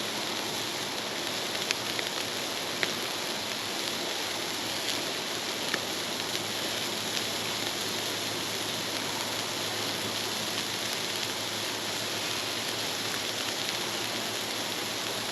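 Burgers sizzling on a grill over a campfire: a steady sizzle with a few sharp crackles from the burning wood.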